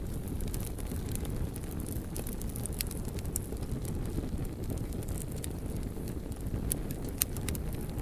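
Wood fire burning: a steady low rumble of the flames with frequent small sharp crackles and pops, one sharper pop a little after seven seconds.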